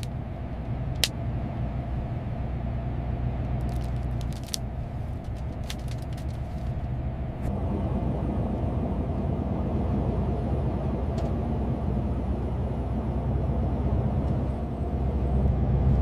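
A big truck's engine running with a steady low rumble, a little louder from about halfway through, with a few light clicks.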